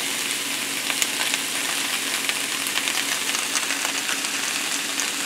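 Chunks of mixed vegetables sautéing in a hot skillet, a steady sizzle with scattered small crackles.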